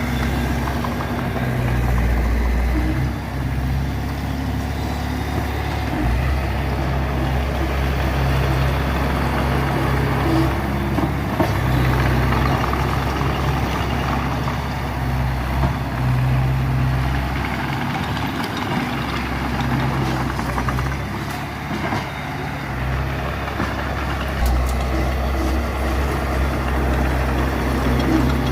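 Heavy diesel engines of a small bulldozer and a dump truck running under work, the low engine note swelling and easing with the load. The engines are louder again from about three-quarters of the way in.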